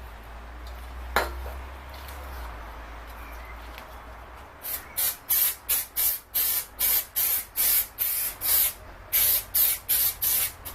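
Spray adhesive being sprayed in a quick series of short hissing bursts, about three a second, after a single sharp click about a second in.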